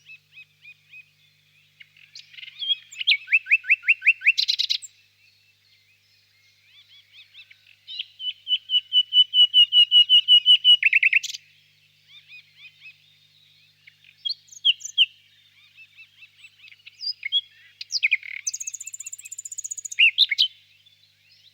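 Nightingale singing: loud phrases of rapidly repeated notes and quick downward-sweeping trills, each lasting a second or few, separated by short pauses, with fainter repeated notes between them.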